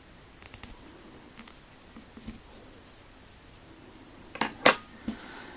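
Scissors snipping yarn: a few faint clicks, then three sharp snips close together near the end.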